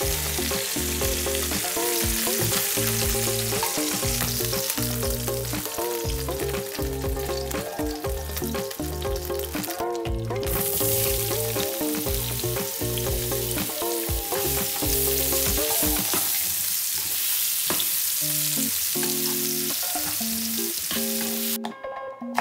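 Food sizzling in hot fat in a frying pan: first chicken drumsticks, then, after a short break about ten seconds in, chopped onion and green pepper. The sizzling stops shortly before the end.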